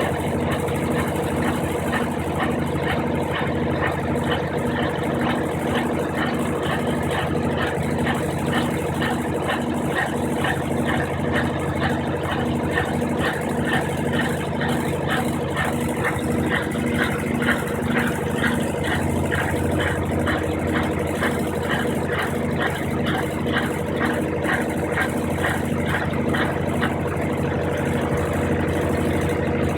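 Brastemp 15 kg washing machine running through its rinse and spin cycle: a steady motor hum with a regular pulsing beat throughout.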